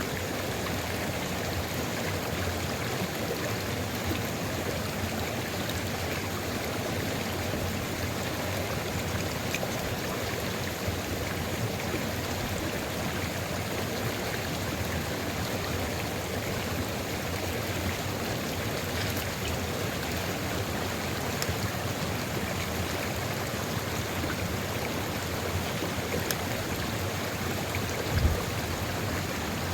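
Sulfur river flowing steadily, an even, unbroken rush of running water. A single brief low bump stands out near the end.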